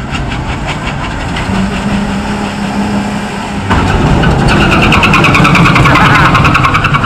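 Pickup truck engine held at high revs during a burnout, with a rapid, even pulsing; it gets suddenly louder a little under four seconds in and stays loud.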